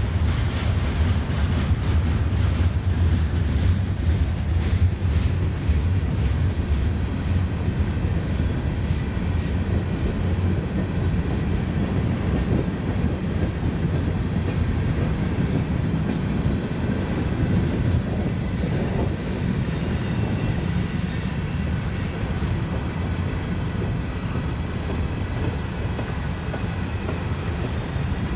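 Freight cars of a mixed freight train rolling past: a steady deep rumble of steel wheels on rail with clickety-clack over the rail joints, a little louder and clickier in the first few seconds.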